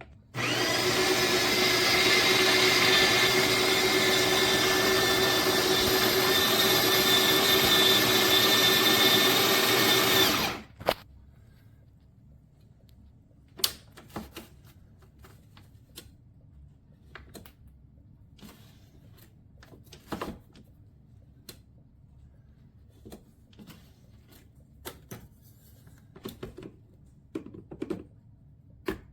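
Espresso machine's built-in coffee grinder running steadily for about ten seconds, a motor whine over the noise of beans being ground, then stopping. After it come scattered light knocks and clicks of handling.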